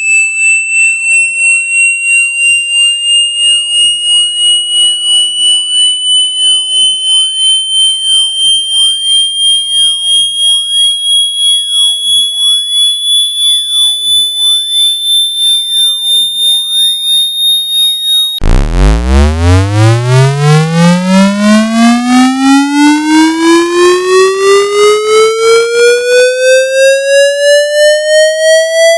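Synthetic water-eject test tone. A high-pitched tone rises slowly for about eighteen seconds with an even pulsing in level. It then cuts abruptly to a buzzy tone that sweeps upward from a deep hum to a mid pitch.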